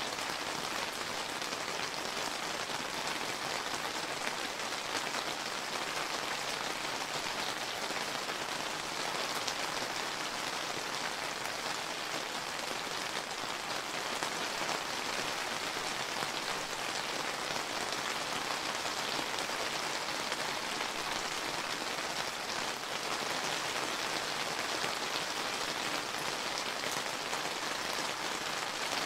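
Steady summer rain falling, a dense even patter of raindrops on surfaces with no break or change.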